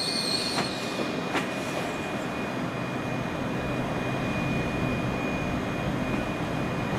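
A train in the station: its high wheel squeal dies away about half a second in, leaving steady running noise with a thin, steady high whine and a couple of faint clicks.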